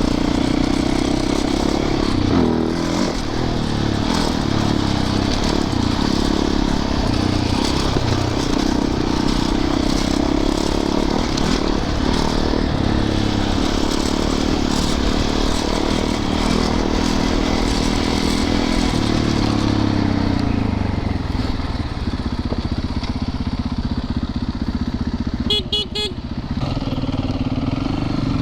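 Dirt bike engine running under way, its note steady, then easing off and dropping lower about two-thirds of the way through. Near the end a quick run of high beeps sounds over the engine.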